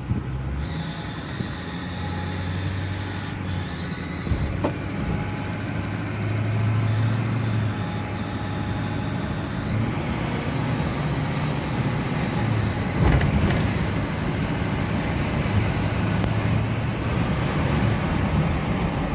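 Ford 6.4 Powerstroke twin-turbo V8 diesel running with a steady, high-pitched squeal over the engine note; the squeal's pitch steps up slightly a couple of times, and a few brief knocks are heard. The source of the squeal is unidentified, even though the belt and all pulleys were replaced 2,000 miles ago.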